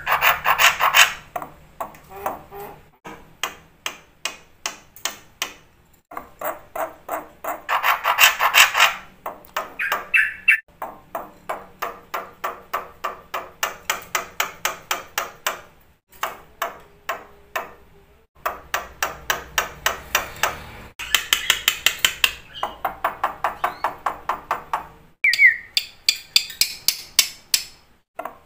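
Black-winged starling (jalak putih) singing: fast runs of sharp, ringing notes, about four or five a second, in phrases broken by short pauses, with louder bursts along the way.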